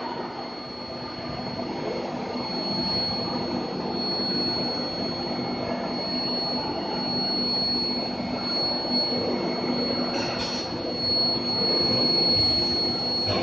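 Induction heating furnace line for car torsion bars running: a steady high whine over a low hum and general machine noise.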